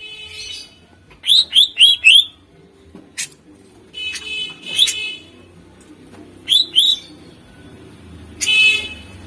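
Greater green leafbird (cucak ijo) singing: bursts of harsh, buzzy chatter alternate with quick runs of sharp, downslurred whistled notes, four in quick succession about a second in and two more around seven seconds.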